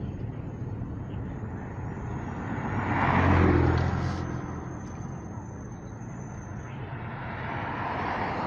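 Road traffic: steady road noise, with a vehicle passing about three seconds in that grows loud and fades away, and another building up near the end.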